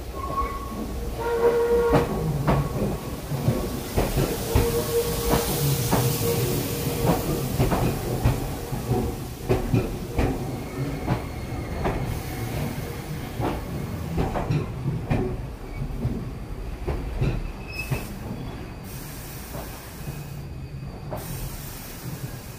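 Iyo Railway electric train pulling into the platform. Its wheels clack over rail joints and points over a low rumble, with short squeals in the first half, and the sound eases off as the train slows toward a stop.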